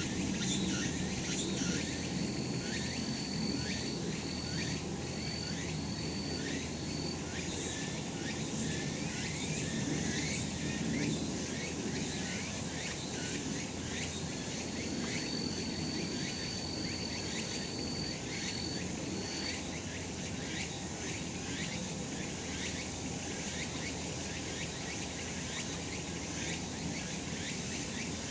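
Cicadas singing in a steady summer chorus, a dense buzzing shrill. Twice a thinner high steady note is held for several seconds and then breaks into a few short pieces.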